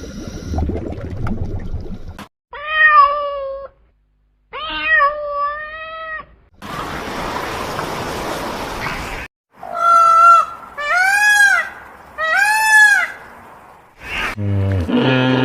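Domestic cat meowing five times: two drawn-out meows in the first half, then three shorter meows that rise and fall in pitch. Between them comes a couple of seconds of steady hiss-like noise.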